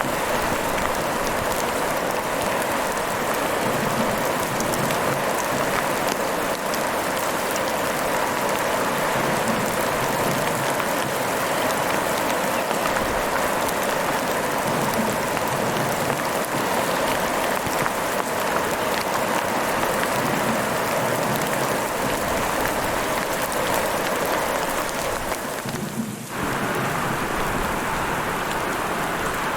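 Heavy rain falling steadily, a dense even hiss, with a brief drop in level near the end.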